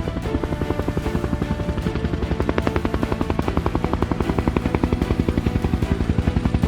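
Helicopter rotor beating in a fast, even pulse that grows stronger after about two seconds, mixed with background music.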